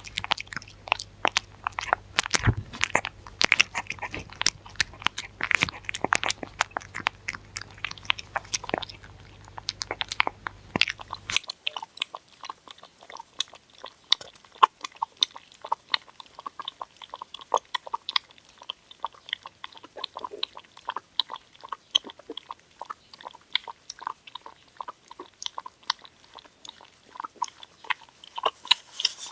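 A dog chewing and crunching food, a quick, irregular run of crisp crunches and bites. A faint steady low hum sits under the first part and stops suddenly about eleven seconds in.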